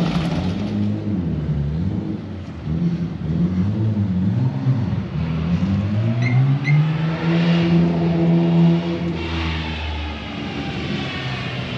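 A vehicle engine being revved over and over, its pitch rising and falling. About halfway through it holds a higher, steady pitch for roughly two seconds before dropping back. Two short high chirps sound just before that.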